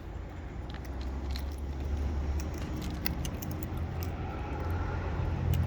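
A low vehicle rumble slowly swelling as a car passes on a nearby road, with scattered sharp clicks and cracks of feeding birds' beaks on seed.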